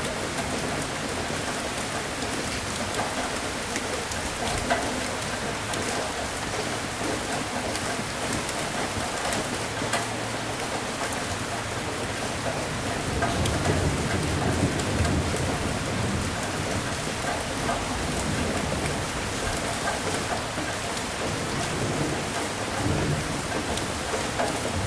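Steady rain falling on a surface, with a low roll of thunder swelling about halfway through.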